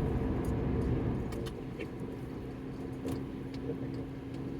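Car in motion heard from inside the cabin: a steady low road and engine rumble with a constant hum, plus a few light clicks.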